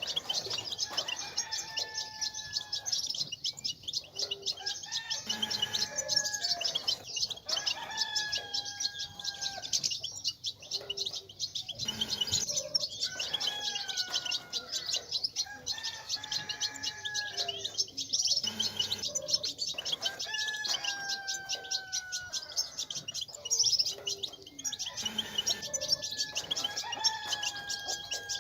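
European goldfinches twittering densely and without pause, the strong 'batbata' chorus used to stimulate male goldfinches to sing. Under it, a lower call with a level, slightly falling tone, about a second long, repeats every two to three seconds.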